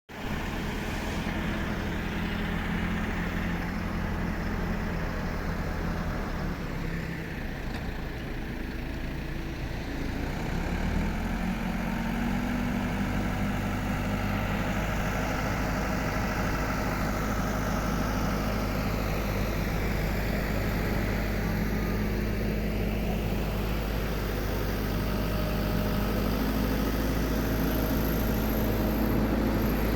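An engine running steadily; its pitch steps up about eleven seconds in, and it grows a little louder near the end.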